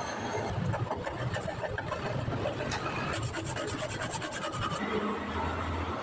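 Rasping, scraping strokes of a hand tool on a radiator under repair, with a quick run of rapid clicks a little past the middle.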